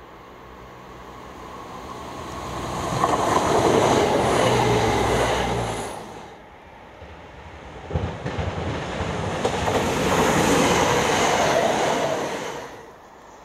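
Electric multiple-unit passenger trains passing close at speed, twice. The first rush of wheels on rail swells and stops abruptly about six seconds in. The second opens with a few sharp knocks of wheels over rail joints, builds, and dies away near the end.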